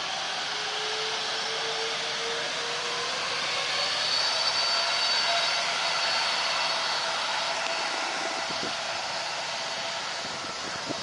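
Jet airliner engines running, a steady roar with a high whine that swells to its loudest about halfway through and then slowly fades.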